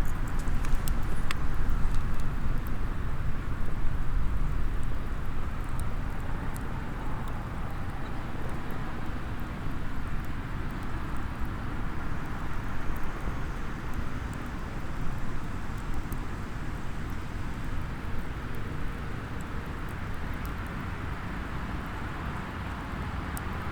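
Small wood fire burning in a SOTO mini hexagonal fire pit, with sparse crackles and pops from the burning wood over a steady low rumble of outdoor ambience.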